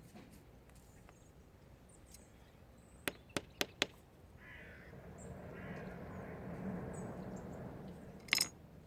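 Sea stones knocking together as they are picked out: four sharp clicks in quick succession, then a longer scraping rustle that swells and fades, and one louder clack near the end.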